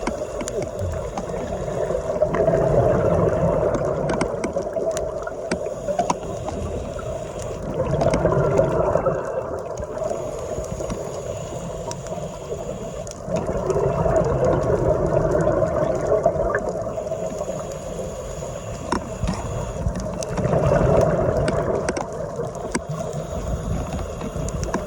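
Underwater sound heard through a phone's dive housing: a scuba regulator's exhaled bubbles, swelling in muffled surges about every six seconds over a steady low rumble of water.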